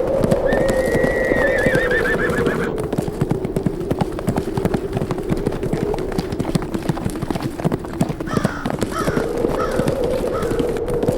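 Horses galloping: a dense, uneven patter of hoofbeats throughout. One horse gives a long whinny about half a second in, and shorter whinnies come near the end. Under it all runs a steady howl of wind.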